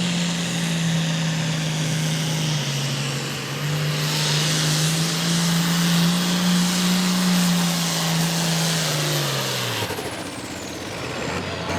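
Pro Farm class pulling tractor's turbocharged diesel engine held at full throttle under the load of the sled, with a high turbo whine over it. About ten seconds in the driver lets off, and the engine note and the whine fall away.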